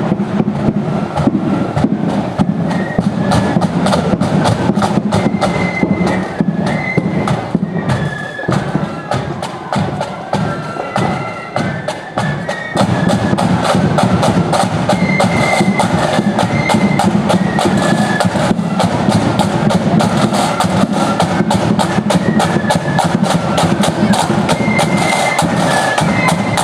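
Marching flute band playing a tune: flutes carry the melody over rapid snare drum strokes and a steady bass drum. The band grows louder about halfway through.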